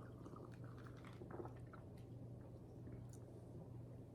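Faint mouth sounds of sipping and swallowing iced coffee, a few small soft clicks, over a steady low hum.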